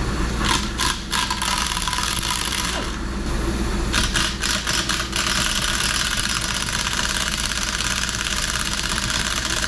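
Socket wrench clicking in two short runs, about half a second in and again around four to five seconds in, while a rusted exhaust manifold bolt on a Ford FE cylinder head is worked loose. The bolt is seized in the threads and turns hard. A steady hiss runs underneath.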